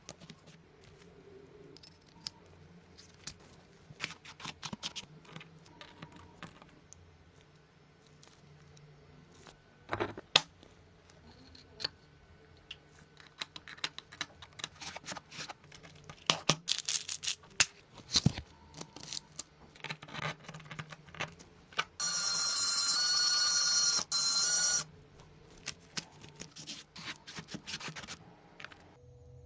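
Small hard parts being handled, with scattered clicks and taps that come thicker in the second half. A small motor whirs for about three seconds near the end.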